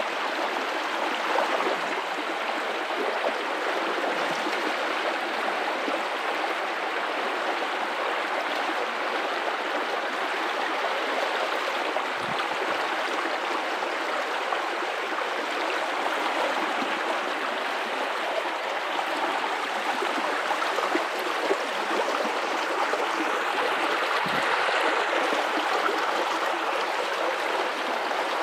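River water running steadily over rocks: a continuous even rush of flowing water, with a few brief low gurgles.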